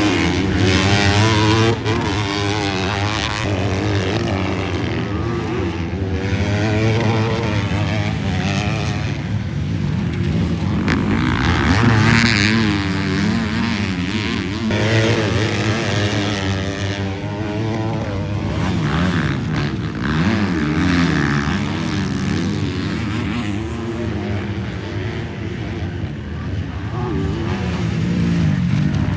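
Motocross bikes racing past on a dirt track, several engines revving up and down with the pitch rising and falling as they accelerate and shift; the loudest pass comes about twelve seconds in.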